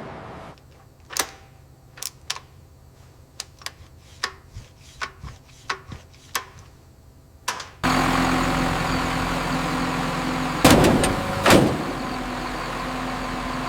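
A string of separate sharp metallic clicks and knocks over a low hum, then about eight seconds in a loud, steady machine noise starts suddenly, with two heavy bangs a few seconds after.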